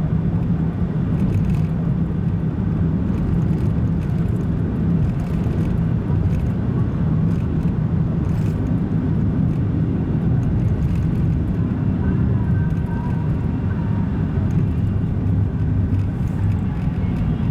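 Car driving at a steady speed, heard from on board: a constant low drone of engine and road noise.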